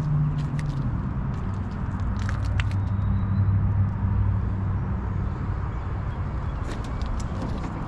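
A motor vehicle's engine running steadily with a low hum, its pitch dropping slightly about a second in, with a few light clicks about two seconds in and again near the end.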